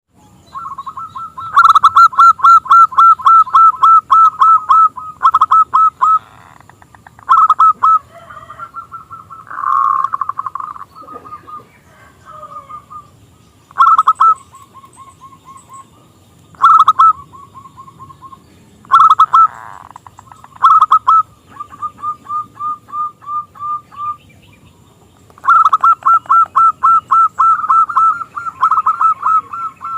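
Zebra dove (local perkutut) calling: long runs of rapid, evenly repeated notes, about five a second, broken by short pauses, with quieter runs in between. The loudest runs come near the start and near the end.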